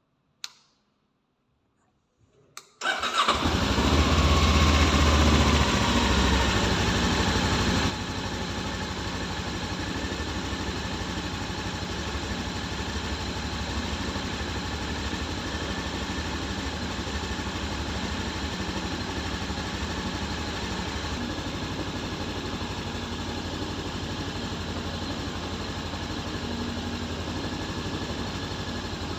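VOGE 525 DSX motorcycle's parallel-twin engine started after a brief click, catching about three seconds in and running at a raised idle. About eight seconds in it drops abruptly to a quieter, steady idle.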